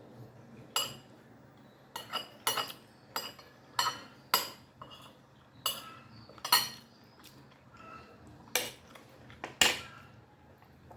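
Cutlery clinking against a plate during a meal: about a dozen sharp clinks at irregular intervals, each with a short ring.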